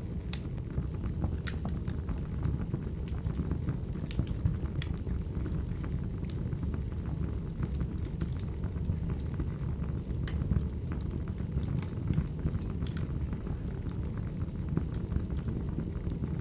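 Firewood burning: a steady low rumble of the fire with irregular sharp crackles and pops, roughly one every second or so.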